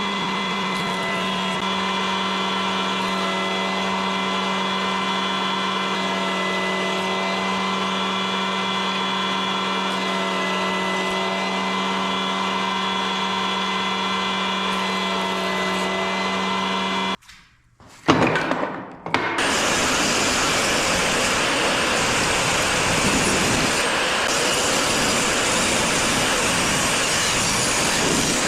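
Woodworking power tools running: a steady motor hum for most of the first half, then after a sudden cut, a brief gap and a sharp knock, a louder, hissier machine noise.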